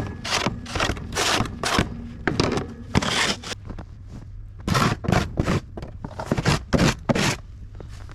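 Footsteps crunching through snow, a quick run of short crunches about three a second that pauses about four seconds in, then carries on more unevenly.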